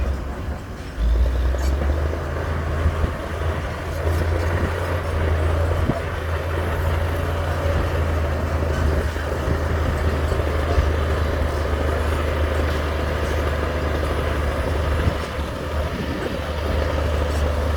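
Heavy diesel construction machinery running steadily, with a deep engine drone and a faint steady whine above it.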